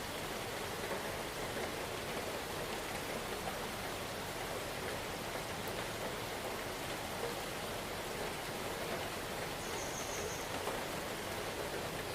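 Steady rain falling, an even hiss with small patters of drops throughout.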